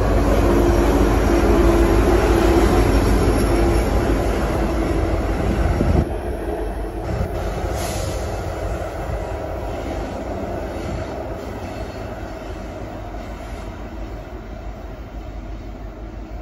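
Diesel freight locomotive and loaded coal train passing close, running loud and low, with a steady tone over it for the first few seconds. About six seconds in the sound drops suddenly to a quieter rumble of the train that fades as it moves away.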